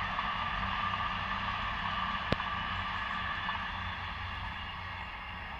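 Steady rushing rumble of a distant passenger train running along the line, easing slightly as it moves away, with one sharp click about halfway through.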